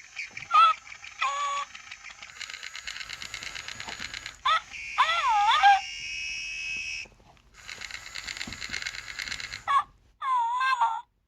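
Senario Scoozie electronic plush ferret toy playing its recorded animal sounds: short squeaky chirps with swooping, wavering pitch, alternating with longer stretches of buzzy, rattling chatter.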